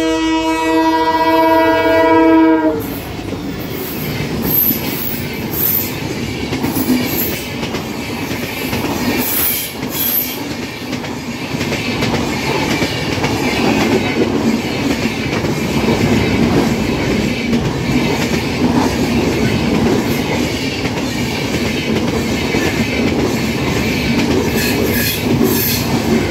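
Kittur Chennamma Express sounding its horn, which cuts off about three seconds in, then its coaches passing close by: a steady rumble of wheels on rail with clicks over the rail joints.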